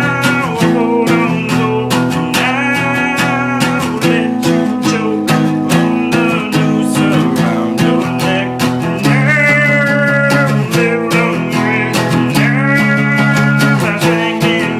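Acoustic guitar strummed in a fast, driving rhythm, with a voice singing over it in places.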